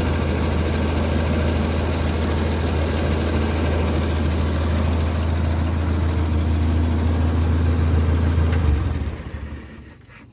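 1963 Ford 2000 tractor's carburetted gasoline engine idling steadily, then dying away near the end.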